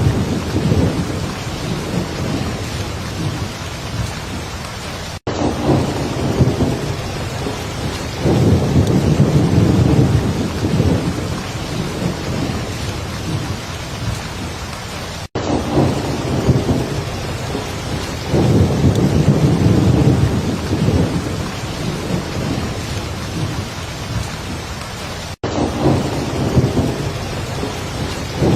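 Heavy rain falling steadily, with deep rolls of thunder swelling and fading every few seconds. The recording is a short loop: the sound drops out for an instant about every ten seconds and the same pattern starts again.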